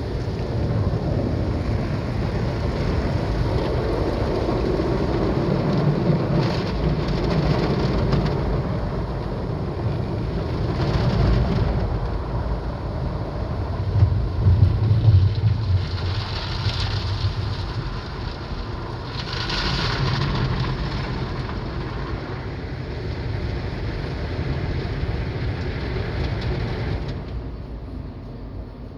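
Drive-through tunnel car wash running, heard from inside the car with the windows up: water spraying on the body over a low rumble of machinery, swelling and fading. Near the end the spraying stops suddenly as the wash shuts down mid-cycle.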